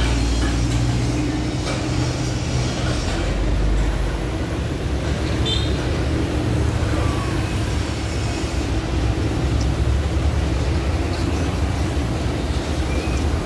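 A large engine running steadily at a constant speed, with a few light metallic clinks.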